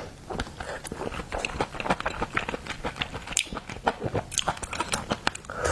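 Close-miked mouth sounds of someone eating seafood: rapid, irregular wet smacks, clicks and bites as the food is chewed, with a few louder, sharper smacks.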